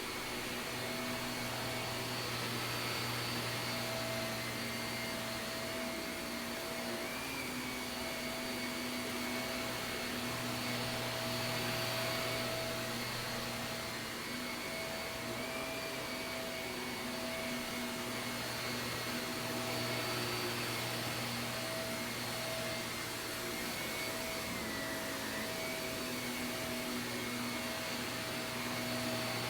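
Shark vacuum cleaner running steadily on carpet, a constant motor hum and whine whose pitch wavers slightly as it is pushed and pulled.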